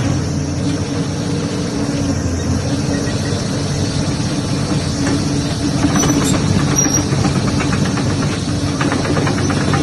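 Heavy earthmoving machine's diesel engine running steadily with a constant low drone.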